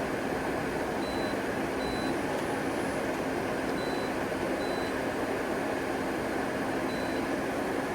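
Okuma Genos L300E-MY CNC lathe running with a steady hum and a constant low tone while its Y-axis is moved. Short, faint high-pitched beeps sound several times.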